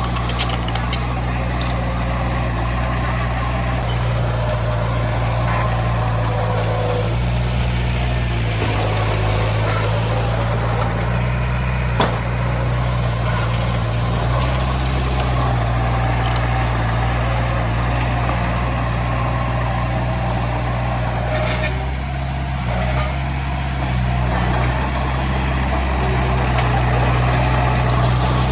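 Heavy diesel machinery engine running steadily, its pitch shifting slightly a couple of times, with one sharp click about twelve seconds in.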